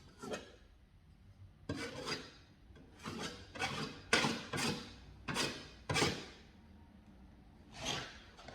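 A spatula (putty knife) scraping and spreading wood filler over the wooden stair nose, in about nine short, separate strokes.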